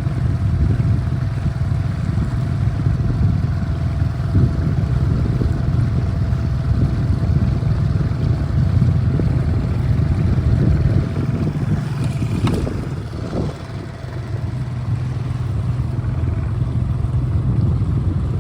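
Small 7 hp four-stroke outboard motor running steadily under way, a low drone with a thin steady whine over it. It dips a little in loudness about two-thirds of the way through.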